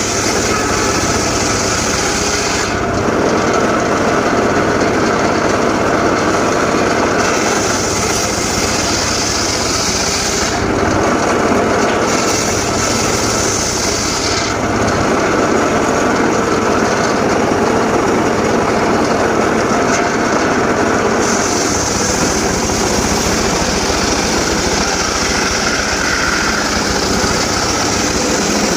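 Homemade engine-driven circular saw running steadily and cutting teak wood, its blade noise rising into a harsh hiss for stretches of a few seconds as it bites into the timber, then easing back to the engine's running.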